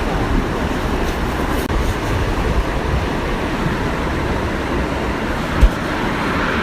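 Steady rushing of a waterfall, a constant even roar of falling water with a low rumble underneath. A single brief low thump near the end.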